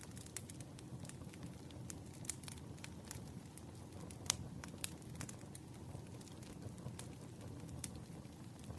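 Wood fire burning with a steady low rumble and frequent irregular crackles and pops, one sharper pop a little past four seconds in.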